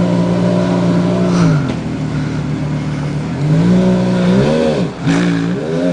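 Porsche Carrera GT's 5.7-litre V10 through AWE Tuning straight pipes, revving up and down: a held high note that drops about a second and a half in, a lower steady stretch, a climb again, then a lift-off and a quick rev blip near the end.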